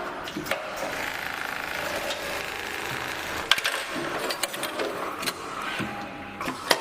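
Automatic strap cutting and sewing machine running its automatic cycle: a steady mechanical whir for the first few seconds, broken by sharp clicks and clacks from its moving parts, a loud one about halfway through and another near the end.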